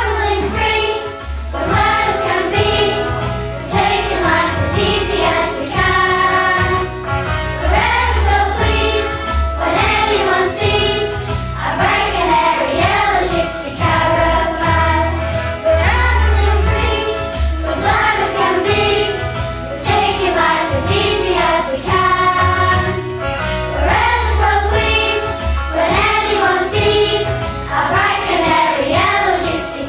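A group of children singing a song together over an accompaniment with a steady bass line.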